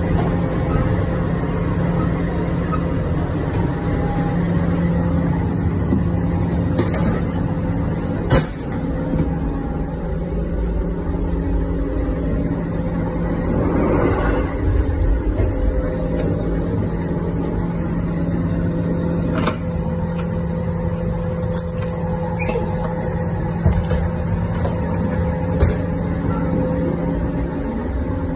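Running noise of a 651 series electric train heard from inside the car: a steady low rumble with a constant hum. Several sharp clicks and knocks come through it, one about eight seconds in and a cluster near the end.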